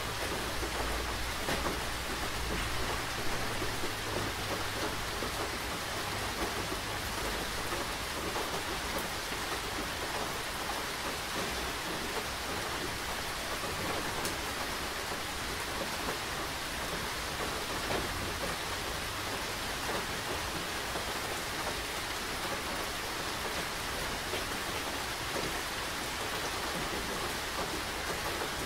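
Steady rain falling, an even hiss with scattered drop ticks. A low rumble sits under it for the first several seconds, then fades.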